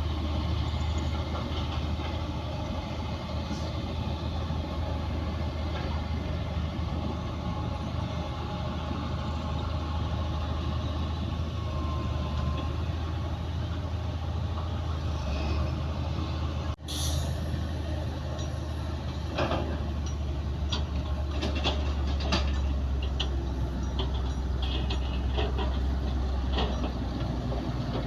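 Heavy diesel earthmoving machinery running steadily, a bulldozer and dump trucks at work. There is a brief cut about seventeen seconds in, and after it come scattered metallic clanks and squeaks.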